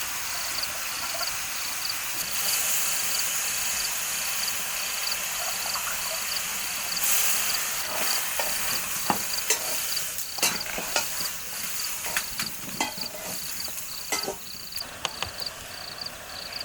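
An insect chirping steadily in a regular pulse, about two to three chirps a second, at one high pitch. From about 8 s on there are scattered clicks and knocks of a utensil in a cooking pot, with two brief hisses earlier.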